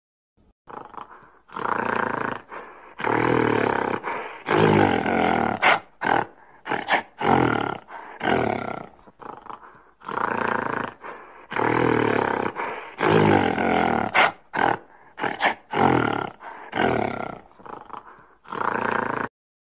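Gorilla calls played as a sound effect: a few long, loud calls followed by a string of short grunts. The same sequence plays twice, the second time starting about halfway through.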